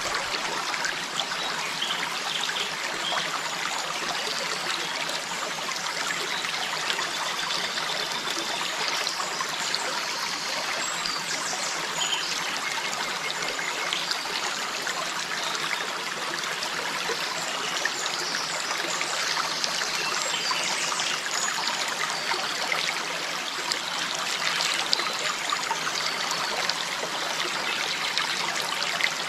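Steady running water, an even rushing trickle that does not swell or break in surges.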